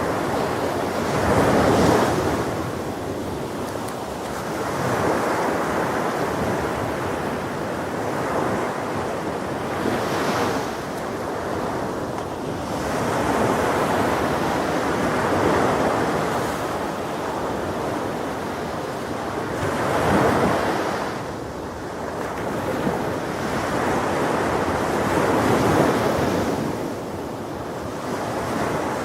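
Ocean waves breaking on a shore, with wind. The surf swells and recedes in surges every few seconds.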